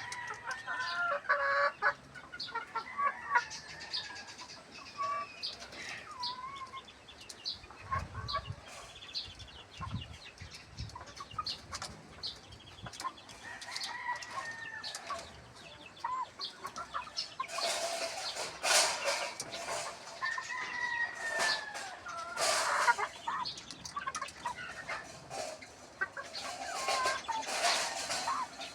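Gamefowl pullets clucking and calling, many short rising-and-falling calls one after another. Louder noisy bursts come through in the second half.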